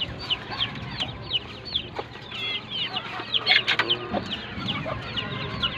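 A group of chicks peeping: many short, high cheeps that fall in pitch, several a second and overlapping, with a few lower calls about three and a half seconds in.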